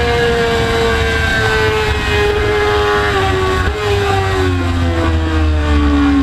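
Motorcycle engine at high revs, its pitch falling steadily as it slows, with a brief break in the sound a little past halfway.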